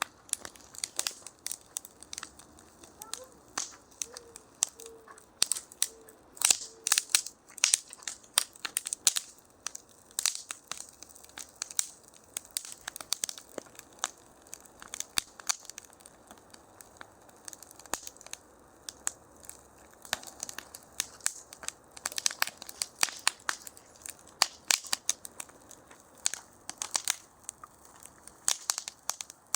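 Fire crackling, with irregular sharp snaps and pops, a few louder than the rest.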